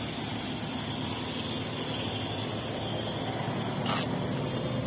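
Steady street noise with a car engine running close by, a low even hum. A brief sharp click about four seconds in.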